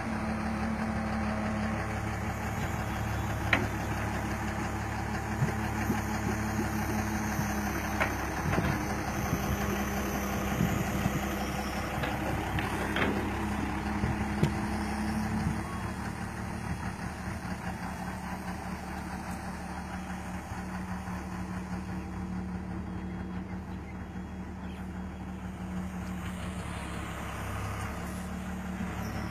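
Kobelco excavator's diesel engine running steadily, with a few sharp knocks in the first half and a slight drop in level about halfway through.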